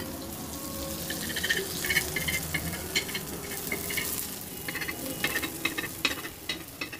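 Horse gram adai batter sizzling on a hot griddle, with a steady hiss and irregular crackles and pops.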